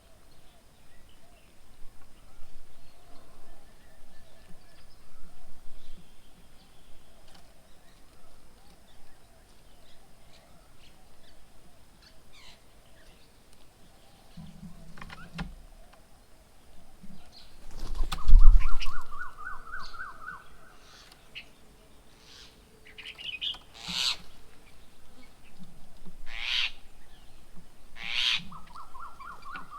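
Wild birds at a feeding table. A loud low thump comes a little past halfway, followed by a quick run of rapid call notes that climbs slightly. Sharp repeated calls follow every second or two, and the run of notes comes again near the end.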